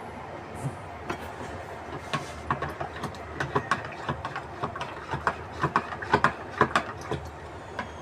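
Close-up eating sounds: irregular wet clicks and smacks of chewing bread, coming thick and fast through the middle of the stretch, over a steady low hum.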